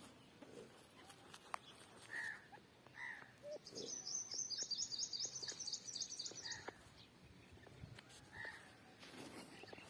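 A bird chirping: a rapid, high-pitched trill of repeated notes lasting about three seconds in the middle, with a few short, lower single chirps before and after it.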